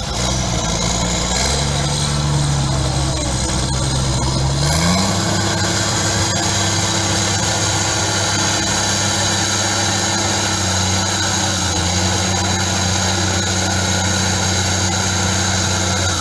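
Heavy truck engine running, its revs climbing about five seconds in and then held steady at a higher pitch, with a high whine above the engine note.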